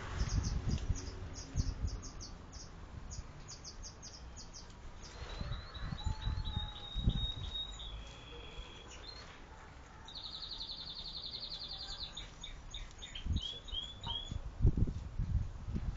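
Small birds chirping over and over in short high notes, with a fast trill about ten seconds in and a few quick falling notes near the end. Dull low thumps come in between, loudest around seven seconds in and near the end.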